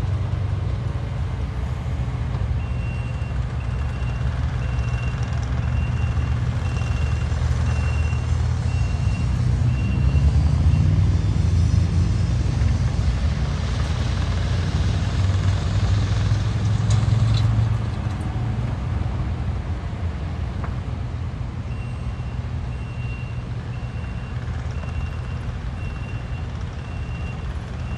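Low vehicle engine rumble with a reversing alarm beeping evenly, a little under two beeps a second. The alarm sounds in two spells, one starting a few seconds in and one near the end. The engine grows louder in the middle.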